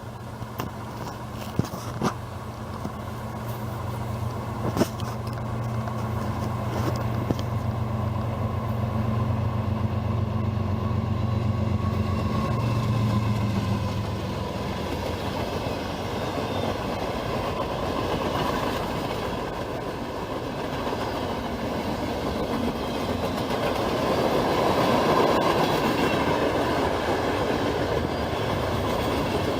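CSX freight train passing close by: the diesel locomotive's low engine drone for about the first half, then the steady rumble and clickety-clack of freight cars rolling past, with a few sharp clanks in the first few seconds.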